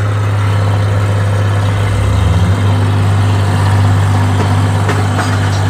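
Rice harvesting machine's engine running steadily with a strong low hum, its pitch shifting briefly about two seconds in.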